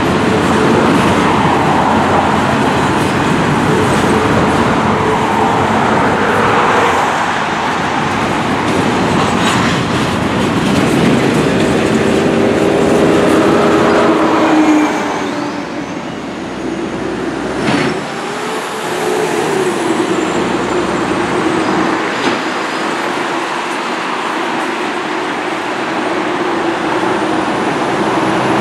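Freight train of double-stack intermodal well cars rolling past with a steady rumble of wheels on rail, mixed with cars and trucks passing on a highway close by. The sound drops in loudness about halfway through, and a single sharp knock follows a few seconds later.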